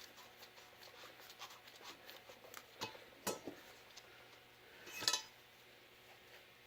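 Light metallic ticks and scraping as an exhaust valve is spun against its freshly cut seat in a small-block Chevy 882 cast-iron cylinder head, checking the seat contact pattern against black marker. A sharper click comes about three seconds in and a louder clack about five seconds in.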